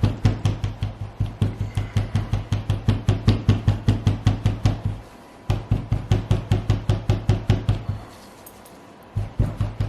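A mold full of freshly poured soap batter tapped rapidly on the work surface, about five or six dull knocks a second, to bring out trapped air bubbles. The tapping pauses briefly midway, stops about a second and a half before the end, then starts again for a short burst.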